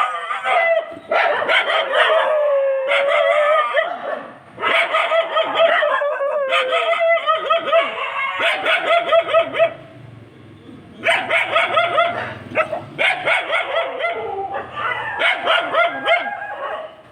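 Several animals calling loudly: shrill, wavering cries and short, sharp barking calls, broken by a brief lull about ten seconds in.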